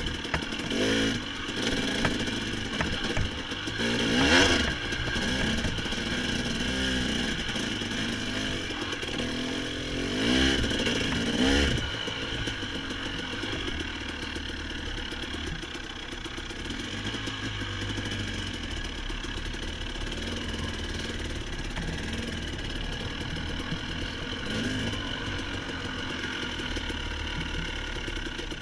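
Dirt bike engine revving up and falling back several times during the first twelve seconds, then running more steadily at a lower, even pitch.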